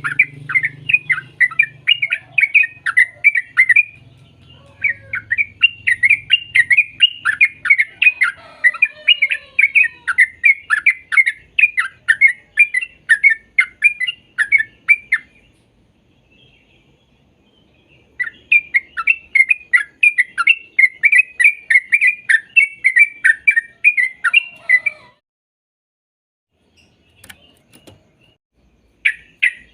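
Yellow-vented bulbul (trucuk) singing: rapid runs of short chirping notes, several a second, in long bursts broken by two pauses of a few seconds.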